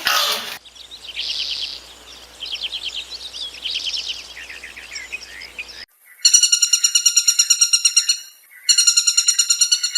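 Birds chirping in quick, repeated trills. Then, after a cut, a loud, rapidly pulsing high trill comes in two bursts of about two seconds each.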